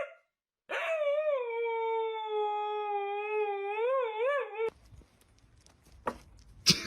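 A dog howling in one long held note for about four seconds, wavering near the end. Then it gives way abruptly to quieter background with a few sharp taps, one loud click near the end.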